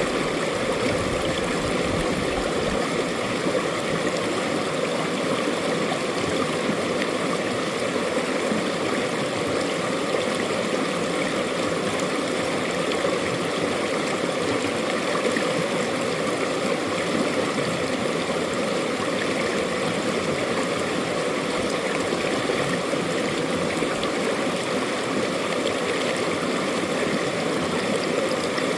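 Mountain valley stream flowing over rocks, a steady rushing and burbling of water.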